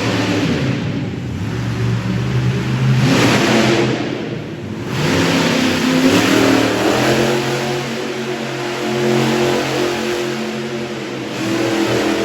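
Wicked Strong monster truck's engine revving up and down repeatedly, with several loud surges of throttle.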